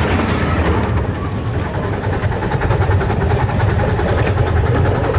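Miniature railway train running along the track, heard from aboard: a steady low rumble of wheels and running gear.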